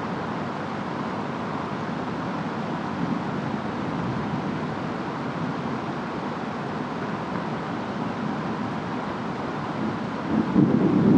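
Steady rush of a rainstorm's rain and wind. Near the end a louder, deeper rumble sets in, like distant thunder or a strong gust.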